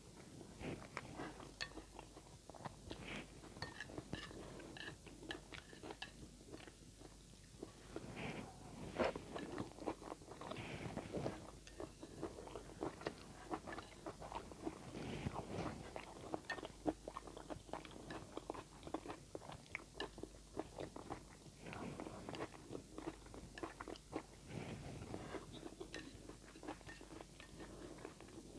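Close-up chewing and mouth sounds of a person eating instant noodles with vegetables: many short clicks from the mouth, with a few louder bites here and there.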